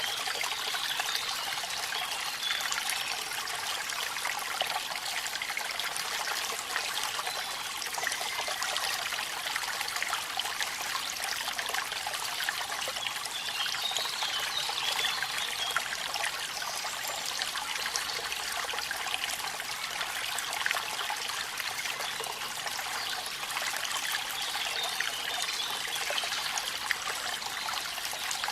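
Rain and a waterfall: a steady hiss of falling and trickling water, full of small splashes, with little deep rumble.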